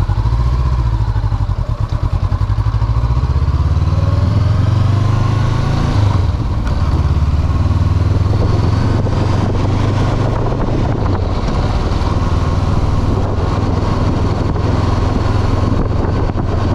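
2022 Honda CB500F's parallel-twin engine under way on the road, its note rising over the first five seconds as the bike pulls away, then holding steady at cruising speed.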